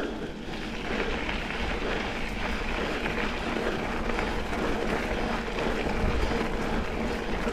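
Mountain bike rolling along a gravel double-track trail: steady rolling noise from the tyres on the gravel, with a faint steady hum.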